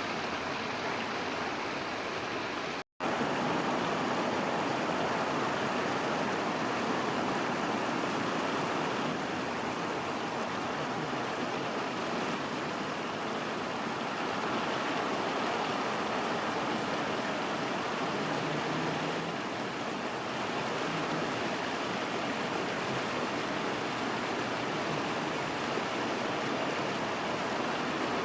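A steady rushing noise, unbroken except for a sudden brief dropout about three seconds in.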